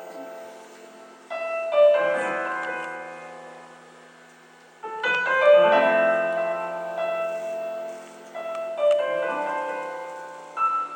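Piano playing a slow song introduction: a chord struck three times, each held and left to ring and fade, a few seconds apart.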